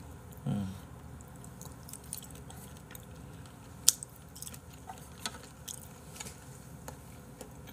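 Soft, wet chewing and mouth clicks of a person eating raw beef liver off chopsticks, with a short sharp click about four seconds in. There is a brief low hum from the eater near the start.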